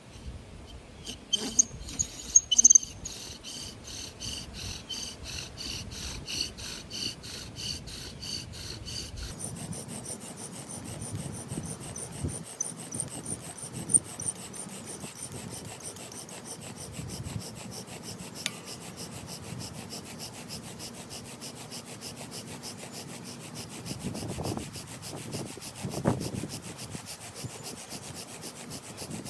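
Virginia pine bow drill spindle grinding in its hearth board as the bow saws back and forth, making a steady rhythm of rasping strokes. A high squeal rides over the strokes at first, and about nine seconds in the strokes quicken as the drilling builds toward an ember.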